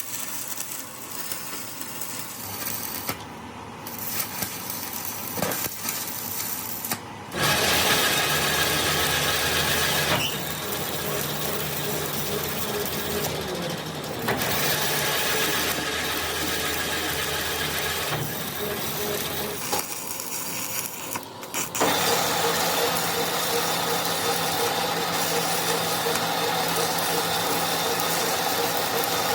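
A machine running steadily with a hiss and a low hum. It starts suddenly about seven seconds in, changes level a few times, stops briefly near twenty seconds and starts again.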